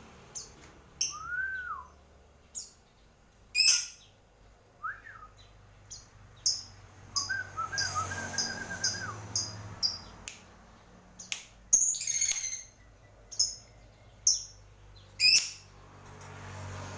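Pet lovebird giving short, shrill chirps and squeaks at irregular intervals, with a few lower whistled notes and a brief trill among them.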